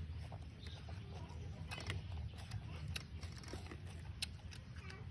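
Close-up chewing of food with wet mouth clicks and smacks scattered through, over a steady low hum.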